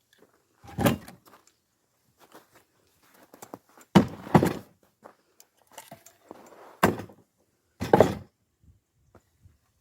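Axe blows splitting firewood logs: several sharp, heavy thunks spaced one to three seconds apart, one of them followed half a second later by a second knock.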